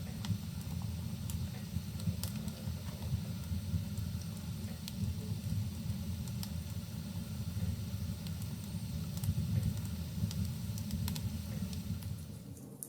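Wood fire burning in a fireplace: a steady low rumble with scattered sharp crackles and pops from the burning logs. The low rumble drops away near the end.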